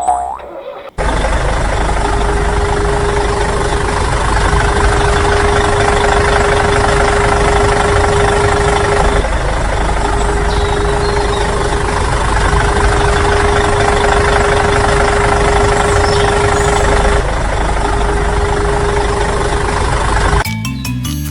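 Loud, steady engine or motor noise with a constant hum over it. It starts abruptly about a second in, the hum drops out briefly twice, and the noise cuts off just before the end.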